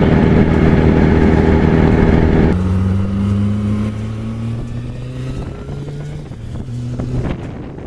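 Yamaha R1's 998 cc inline-four with a Yoshimura exhaust, loud and steady at speed. About two and a half seconds in the note steps down, then slowly falls in pitch and gets quieter as the bike eases off, with a brief swell near the end.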